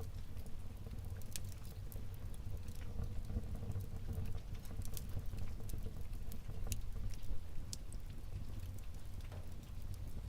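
Wood fire burning in a fireplace: irregular sharp crackles and small pops over a steady low rumble of the flames.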